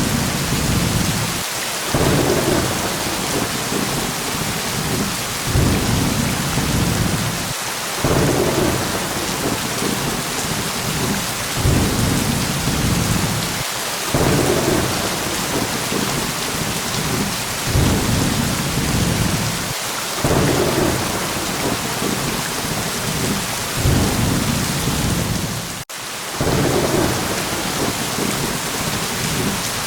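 Steady rain falling, with low rolling thunder swelling up again every few seconds. The sound cuts out for a split second late on, then resumes.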